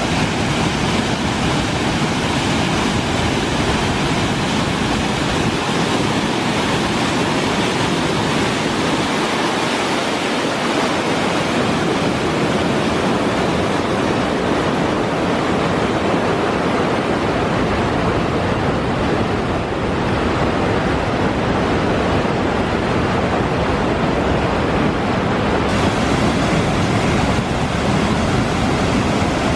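Kivach waterfall: a steady, loud rush of falling water.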